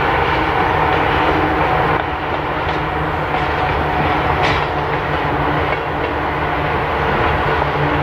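Freight train rolling past at close range: a steady rumble of wheels on the rails, with a short high squeal about four and a half seconds in.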